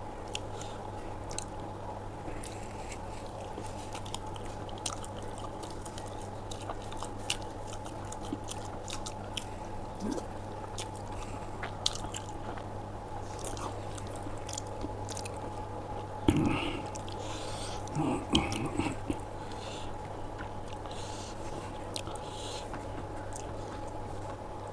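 Close-up mouth sounds of a person eating aloo paratha with dahi: steady chewing with many small wet clicks, and a few louder bites about two-thirds of the way through. A steady low hum runs underneath.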